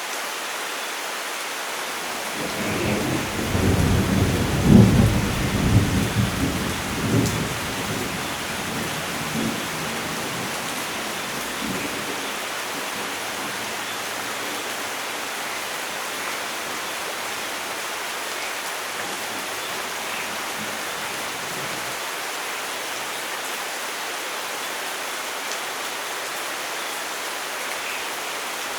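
Steady rain falling, with a roll of thunder that builds a few seconds in, peaks, and rumbles away over several seconds.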